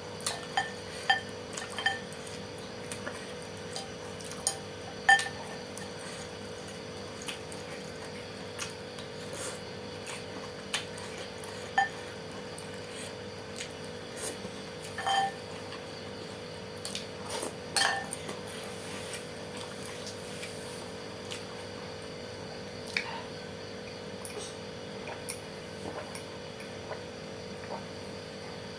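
Cutlery clinking and tapping against a bowl while eating noodles: scattered irregular taps, a few ringing briefly, over a steady faint hum.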